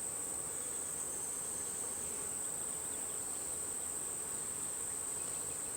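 Steady high-pitched insect trill, the loudest sound throughout, over a faint low hum of honeybees buzzing around an open hive.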